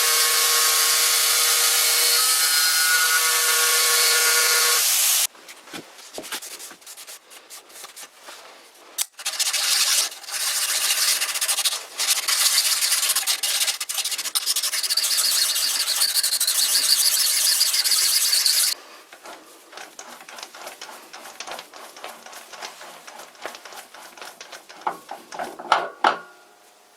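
Hand and machine work on steel: a loud steady cutting noise with a faint ringing pitch for about five seconds, then small clicks and knocks, then a long stretch of rough rasping strokes that stops abruptly near two-thirds of the way through, followed by light ticks and clatter of handled tools.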